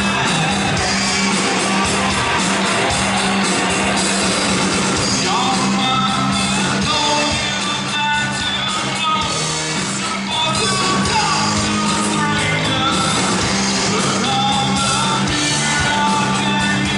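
Rock band playing a song with a singer, loud and continuous.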